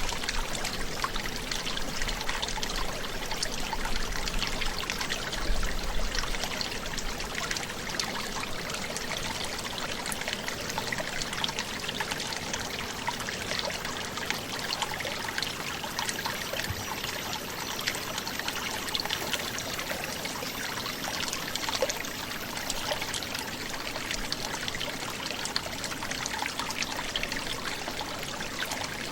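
A brook gurgling and trickling, a steady rush of running water.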